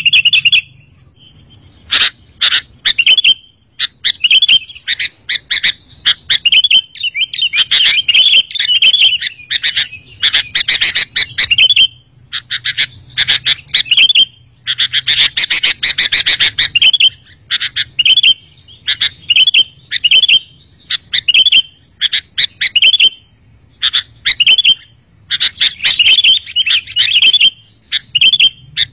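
Sooty-headed bulbul (kutilang) singing and chattering: busy strings of short, bright, quickly repeated notes, broken by brief pauses.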